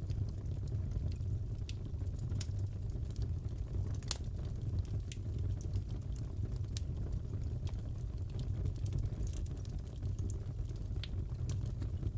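Crackling fireplace: a steady low rumble of burning with scattered sharp pops and crackles, the loudest about four seconds in.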